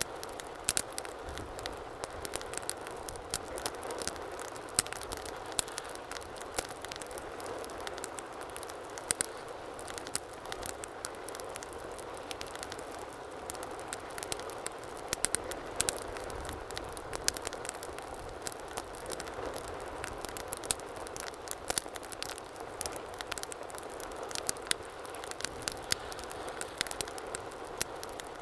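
Wood fire burning steadily with a soft rushing hiss and frequent sharp, irregular crackles and pops.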